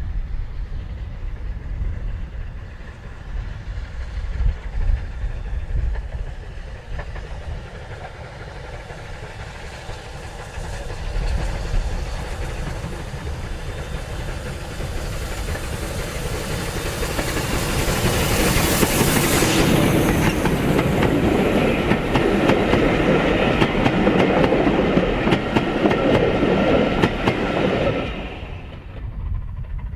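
A train approaching and passing close by. It builds from about the middle, is loudest for several seconds with its wheels clacking over the rail joints, then drops away near the end.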